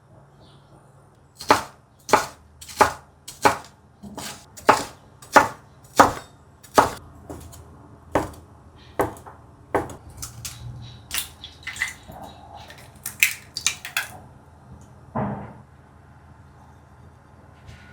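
Knife chopping on a wooden cutting board, at first in an even rhythm of about three cuts every two seconds, then in quicker, irregular cuts, with a duller knock near the end.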